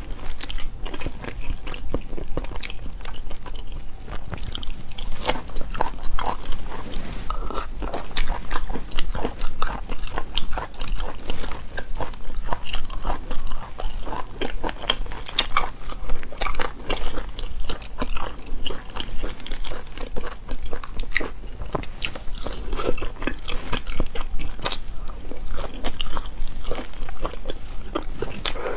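Close-miked chewing and biting of cooked cat's-eye turban snail meat: a steady run of short mouth and teeth clicks and smacks.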